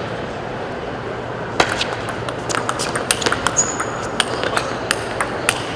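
Table tennis ball clicking sharply off the rackets and the table in a rally: a quick run of ticks a few tenths of a second apart, starting about a second and a half in, over the steady murmur of a hall.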